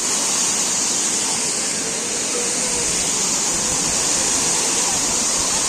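Thirparappu waterfall: a steady, hissy rush of falling water.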